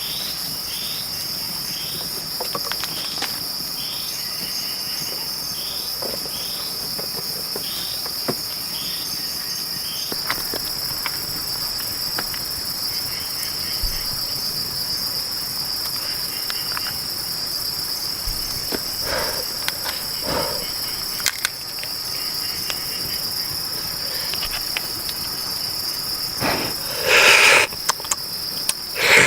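Rainforest insects shrilling in a steady, high, unbroken chorus, with a second caller chirping about every 0.7 s for the first several seconds. A louder, brief sound cuts in near the end.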